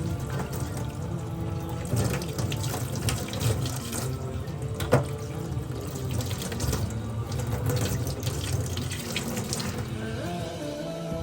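Water running from a tap into a sink, with a few short knocks and clinks, one sharper about five seconds in. Soft background music underneath.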